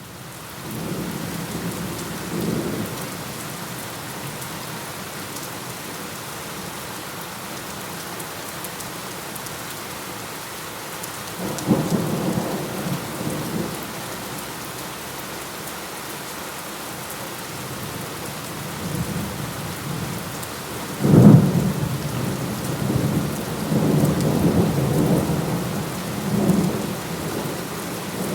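Steady rain with rolling thunder, fading in at the start. Low rumbles come and go, and about two-thirds of the way through a sharp, loud thunderclap breaks out and rolls on as rumbling.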